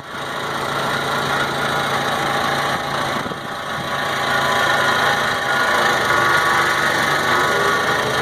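An engine running steadily at idle, a low even hum with a noisy rush over it.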